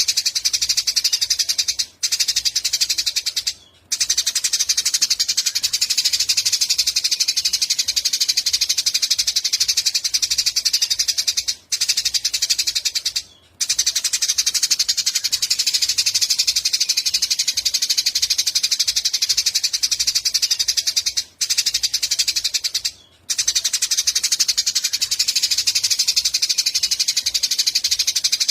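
A small songbird singing a rapid, high-pitched buzzy trill almost without pause. It breaks off briefly in pairs at about ten-second intervals, like a looped song recording.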